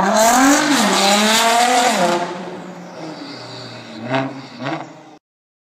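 Car engine revving hard, its note rising and falling twice over a hiss, then fading away with two short pops near the end before it cuts off.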